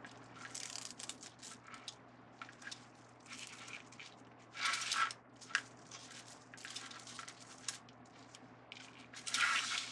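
Deco mesh rustling and crinkling as it is handled and fluffed, in short scratchy bursts, louder about five seconds in and again near the end.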